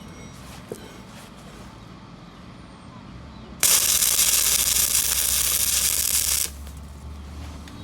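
Stick-welding arc crackling for about three seconds, starting a little past the middle and cutting off suddenly, over a low steady hum.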